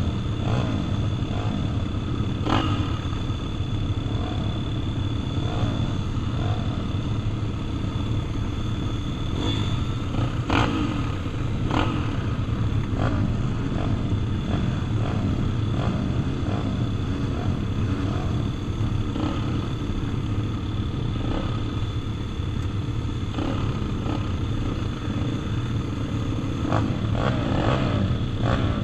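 Several pit bikes' small four-stroke engines running together around a motocross track, their pitches rising and falling as riders open and close the throttle, with scattered sharp clacks.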